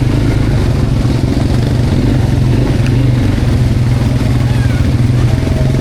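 Quad bike (ATV) engine running steadily while being ridden over a rough trail.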